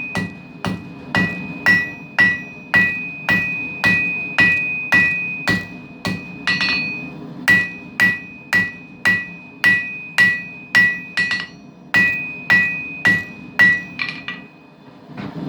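Hand hammer striking hot steel on an anvil, drawing out the handle end of a forged knife blank: about two blows a second, each with a clear high ring. There is a short break in the middle, a few lighter taps near the end, and then the hammering stops.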